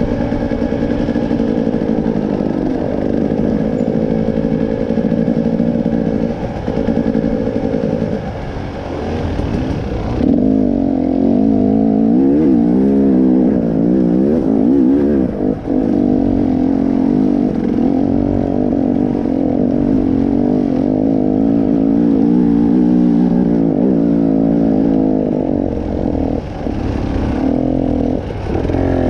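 Motorcycle engine running under way, its pitch rising and falling over and over as the throttle is worked, and louder from about ten seconds in.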